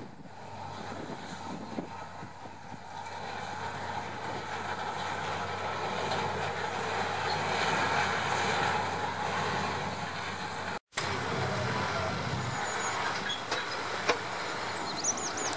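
Bord na Móna narrow-gauge peat train, a diesel locomotive and a long rake of wagons, rolling across a concrete bridge: a steady rumbling clatter of wheels and wagons over a low engine hum, growing louder over the first half as it comes closer.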